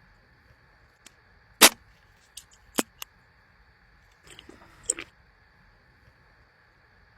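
A person biting and chewing food close to the microphone: a few sharp, short crunches, the loudest about one and a half seconds in, then a softer stretch of chewing around four to five seconds in, over a faint steady hum.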